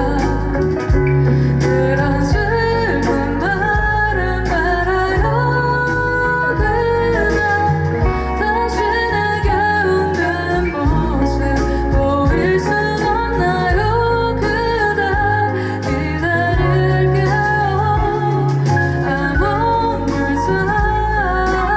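Live band music from a soft pop ballad, with a steady bass line and guitar, and a woman's voice singing over it.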